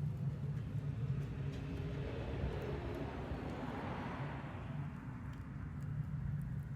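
A vehicle passing by, its noise swelling to a peak about four seconds in and then fading, over a steady low rumble. A few faint crackles from the chiminea's wood fire are heard.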